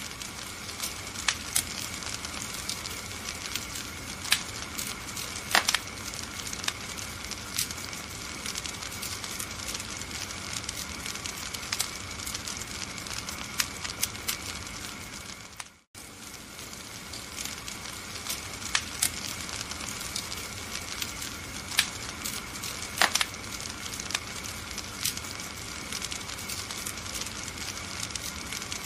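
Wood fire crackling in a fireplace: a steady hiss with frequent sharp pops and snaps, a few of them loud. The sound breaks off for an instant about sixteen seconds in and then carries on.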